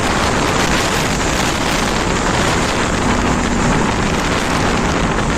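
Steady rush of wind on the microphone from a motorcycle riding at speed, with engine and road noise underneath.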